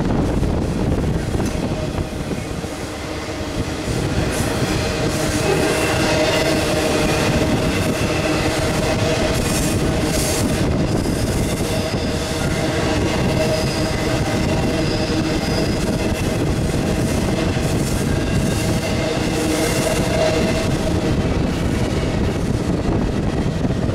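Intermodal freight train cars rolling past on curved track: a steady rumble of wheels on rail with wheel squeal drifting in and out.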